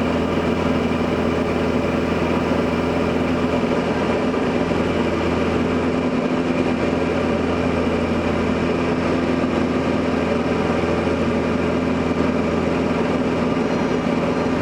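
Diamond DA40 single-engine light aircraft's piston engine and propeller droning steadily in the cabin during the climb-out after takeoff, with even, constant tones.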